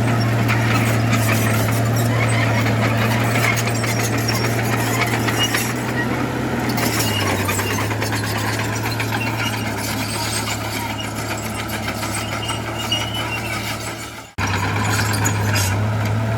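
Heavy earthmoving machine's diesel engine running steadily under load, with a busy metallic clatter over it; the engine note drops slightly about halfway through. The sound cuts out for an instant near the end, then resumes.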